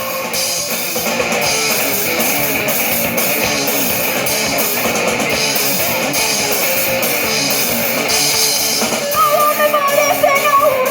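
Live rock band playing: guitar and drum kit with steady cymbal strokes, and a voice singing from about nine seconds in.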